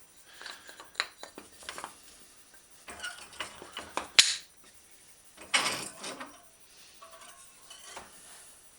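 Metal clinks and knocks as a steel bicycle fender and hand tools are handled, with a sharp click about four seconds in and a short scraping rattle a second or so later.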